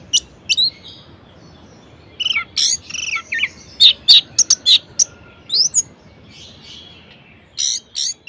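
Orange-headed thrush singing in short, varied phrases of sharp chips and quick rising whistles, in clusters with brief pauses between them.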